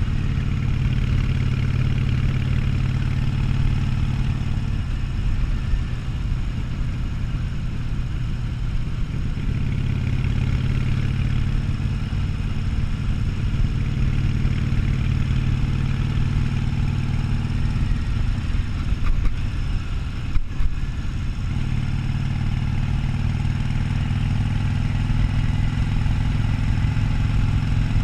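Harley-Davidson Sportster 1200's air-cooled V-twin engine running steadily under way, its note shifting a few times with the throttle. A couple of brief knocks come about two-thirds of the way through.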